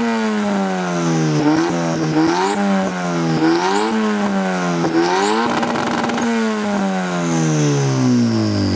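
A high-powered car engine revved hard again and again, its pitch sinking and then snapping back up roughly once a second, with a harsh rasping stretch about six seconds in. Near the end the engine note falls steadily.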